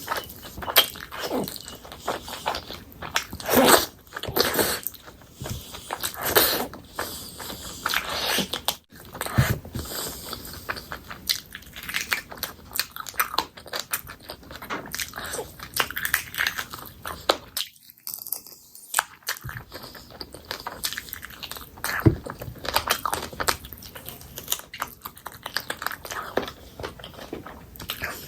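Close-miked eating of chicken curry: steady chewing and biting with wet smacking and irregular clicks, broken by a brief pause a little past the middle.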